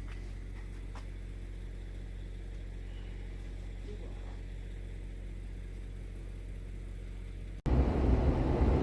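A steady low hum with a few faint ticks; about seven and a half seconds in it cuts off suddenly and a much louder vehicle running takes over.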